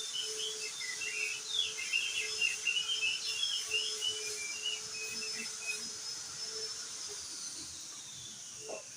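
Crested white-eye (opior jambul) singing a rapid run of short chattering, twittering notes for about six and a half seconds, over a thin steady high tone that slides downward near the end.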